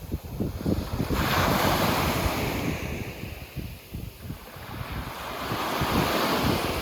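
Sea waves breaking on a beach: one wave crashes about a second in and washes out over the next few seconds, and another swells up near the end. Wind buffets the microphone throughout.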